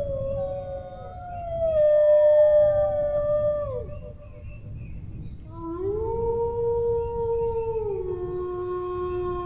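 A dog howling. A long howl slides down in pitch and breaks off about four seconds in. After a short pause a new howl rises, holds, and drops to a lower sustained note near the end.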